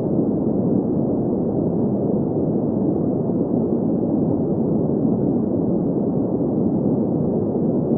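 Green noise: steady, unchanging hiss centred in the low-middle range, with little high end.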